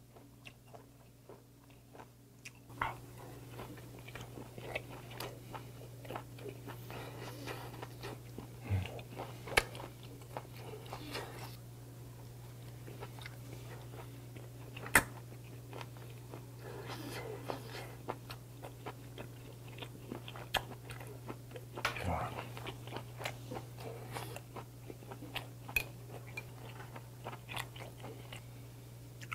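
Close-up chewing and biting of a pickled perilla-leaf wrap of grilled beef, king-scallop adductor and shiitake, with wet mouth sounds, crunches and scattered sharp clicks. A steady low hum comes in about three seconds in.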